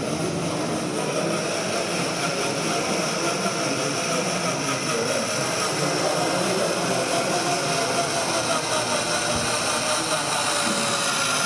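Steady, even din of a busy exhibition hall, with faint steady whining tones over it.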